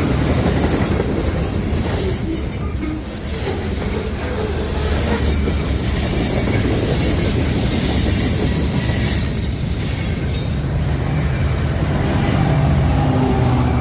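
Train passing close by: a loud, steady rumble of railcars rolling on the track, with a high wheel squeal in the first couple of seconds. A steady low engine hum builds near the end.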